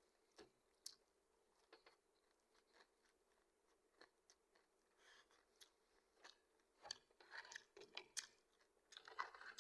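A person chewing food close to the microphone, with scattered crisp crunches that come thicker near the end.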